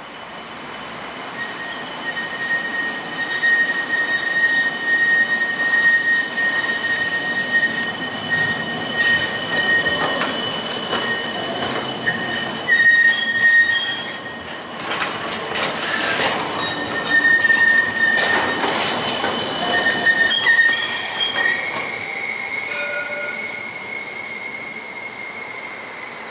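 CAF Urbos 3 tram running through a curve, its wheels squealing on the rails in long high-pitched tones that come and go. The sound builds, is loudest in the middle, and fades toward the end.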